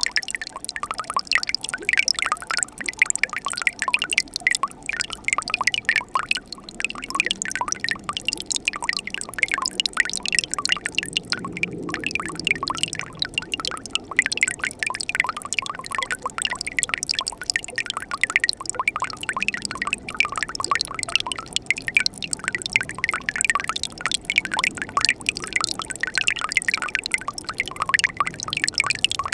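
Winter mountain stream trickling and splashing over rocks beside ice, a steady stream of small bubbling drips and splashes.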